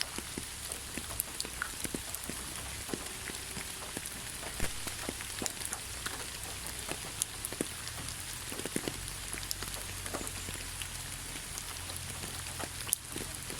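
Steady rain falling, an even hiss with many separate drops ticking on a surface at irregular moments, one louder drop near the end.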